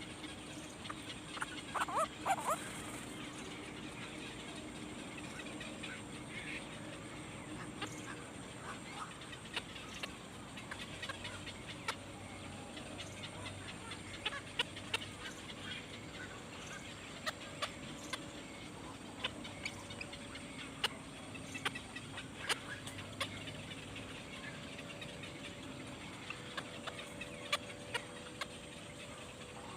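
Short bird calls and chirps scattered through a steady background hum, with a louder cluster of calls about two seconds in.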